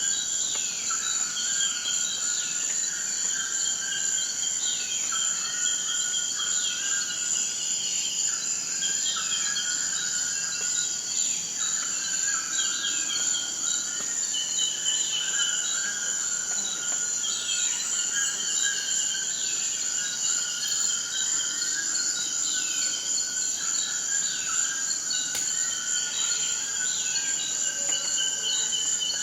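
Forest night-style ambience: a steady high-pitched insect trill of crickets or similar insects, with many overlapping short chirping and falling calls repeating over it.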